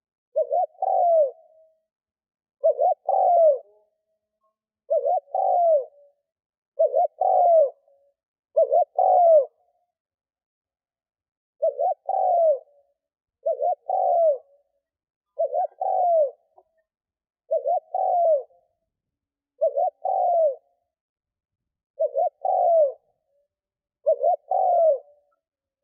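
Spotted dove cooing: a decoy bird's song of short two- or three-note coos repeated about every two seconds, with one longer pause about ten seconds in. It is the calling that keepers play to provoke and lure wild doves.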